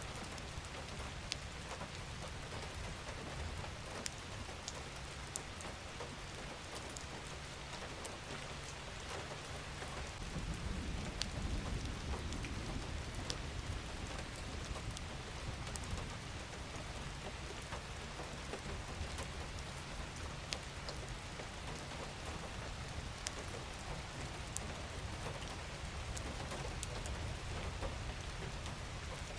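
Steady rain falling, with scattered single drops ticking sharply through it. A low rumble swells about ten seconds in and fades over several seconds.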